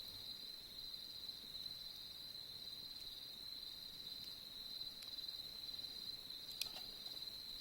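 Crickets chirring in a steady high-pitched chorus, with a pulsing trill over a constant one. A few faint sharp cracks from the campfire come through, the clearest one near the end.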